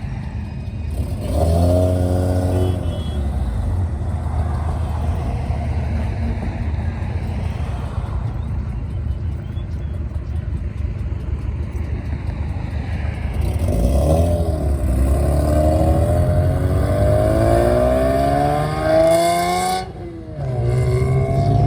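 Car engines leaving a car meet: a brief rev a couple of seconds in, then a car accelerating away, its engine pitch rising steadily for several seconds before a sudden short drop near the end, after which it picks up again.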